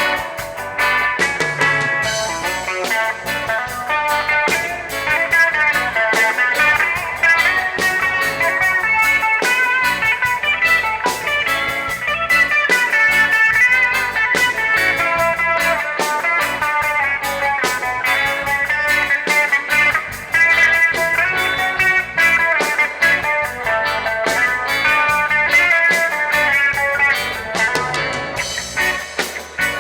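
Reggae band playing live, an instrumental passage led by guitar over a steady drum beat.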